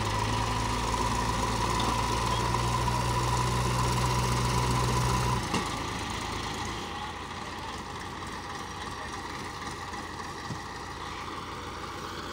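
Heavy diesel machinery engine running steadily, louder for the first five seconds or so, then settling to a lower, even running sound.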